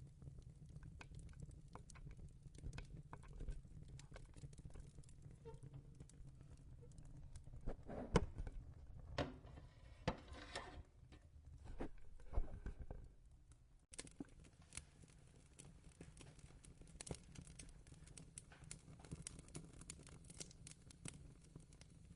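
Faint crackling of a wood fire: scattered small pops and clicks over a low rumble. A few louder knocks and rustles come about a third of the way in, and the background changes abruptly a little past halfway.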